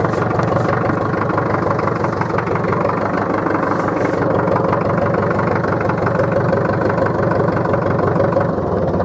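International B-275 tractor's diesel engine running steadily at a low, even speed.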